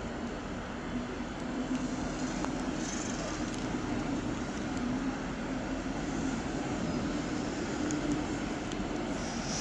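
InterCity train rolling slowly through the station: a steady rumble with a constant low drone.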